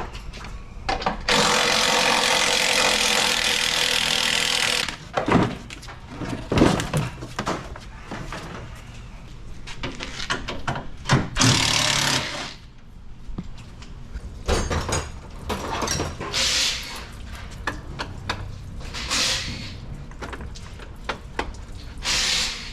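Mechanic's tools at work on a van's front end: a loud hiss of a power tool for about three and a half seconds near the start, then clanks, knocks and several short tool bursts.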